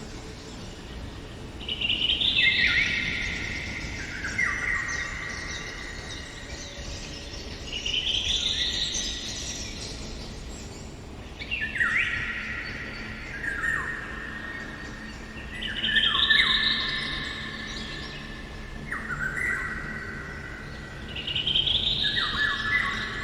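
A songbird singing a repeated phrase every few seconds, each phrase a quick run of whistled notes stepping downward in pitch.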